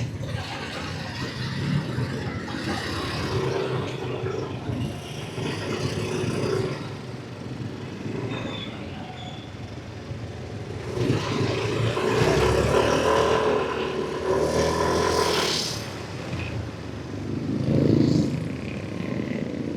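Yamaha NMAX V3 scooter's single-cylinder engine running on the move, with wind and road noise. The engine note rises and falls with the throttle and is louder for a stretch about halfway through.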